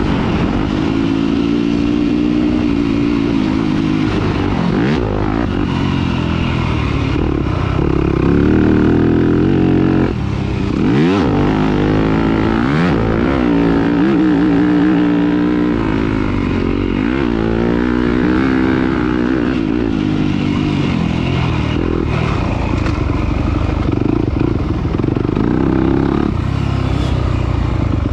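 Off-road race engine run hard over a rough course, revving up and dropping back again and again through gear changes. It briefly eases off about ten seconds in, then climbs steeply back up.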